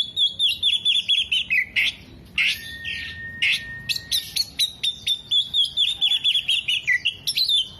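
Oriental magpie-robin (kacer) singing a loud, fast song: a quick run of chirps that falls in pitch, a long level whistle, then the falling run again. The song is said to be packed with mimicked calls of sunbirds, lovebirds and other birds.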